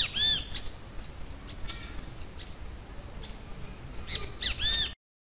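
Birds calling: a short bright note and an arched, ringing call come at the start and again near the end, with fainter chirps between. The sound cuts off suddenly just before the end.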